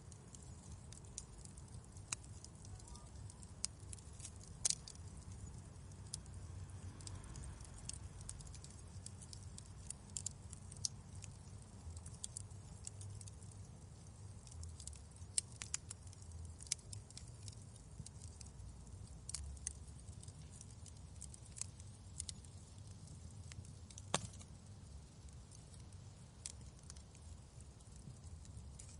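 Wood fire crackling in a fireplace: irregular sharp snaps and pops, a few louder, over a low steady rumble.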